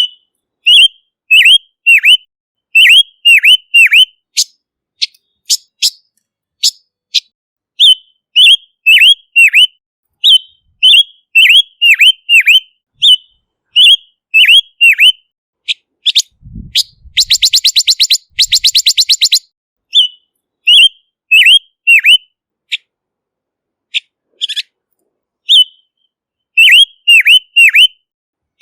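Silver-eared mesia calling: short, loud whistled notes in quick groups of two to four, each dropping sharply in pitch. About two-thirds of the way through there is a fast rattling trill.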